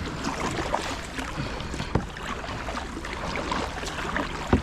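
Kayak paddling on the water, with the paddle blades dipping in and out. There are two short sharp knocks, one about two seconds in and one near the end.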